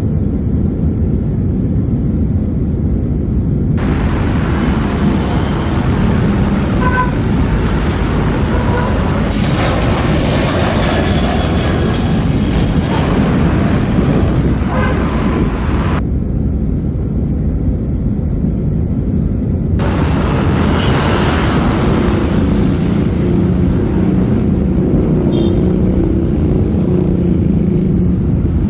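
Jet airliner engines running during takeoff: a heavy, steady low rumble, with the higher hiss above it cutting out and returning abruptly several times.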